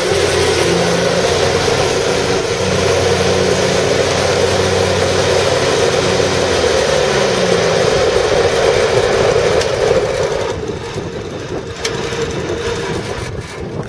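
Exmark Lazer Z zero-turn mower's Kohler Command 25 hp V-twin engine running steadily. About ten seconds in the sound drops and turns quieter.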